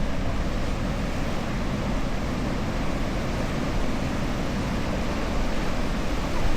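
Atlantic surf breaking and washing onto a beach: a steady rushing noise with no pauses, heaviest in the deep low end.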